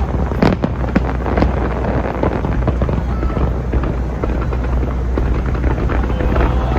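Fireworks going off: a dense run of bangs and crackles over a continuous low rumble of booms, thickest near the end.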